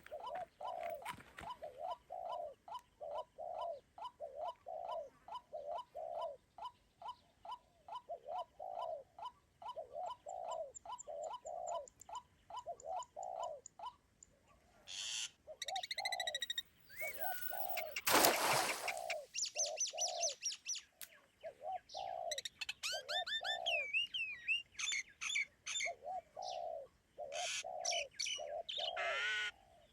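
Birds calling: one bird repeats a low, arched hooting note two or three times a second. About halfway through, higher chirps and whistled calls join in, with a brief noisy burst just after that.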